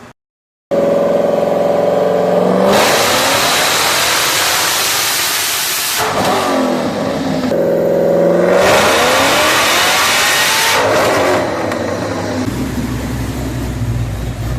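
A supercharged car engine running wide open on a chassis dynamometer in two pulls. Each pull starts as a steady engine note and then rises in pitch as the revs climb. After the second pull the revs fall away and a low rumble is left near the end.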